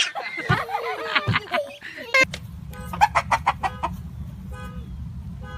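Chickens clucking in short, repeated calls, coming in quick clusters.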